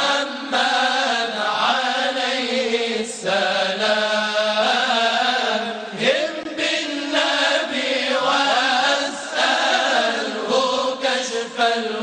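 Moroccan madih (sung praise of the Prophet): a drawn-out chanted melody held over a steady drone, with no clear words in this stretch.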